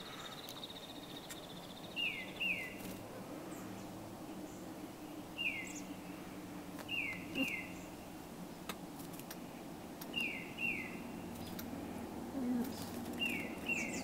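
A songbird calling: pairs of short, quickly falling notes repeated about every three seconds, with a brief fast trill in the first two seconds. A faint low hum runs underneath.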